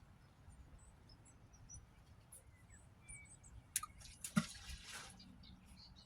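Faint birds chirping over a low wind rumble, with a sharp click and a brief rustle about four seconds in.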